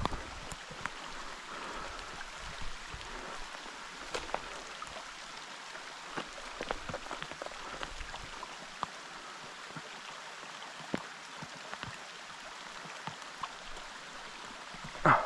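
Rain falling, a steady hiss with scattered drops ticking sharply close by. A brief louder bump comes near the end.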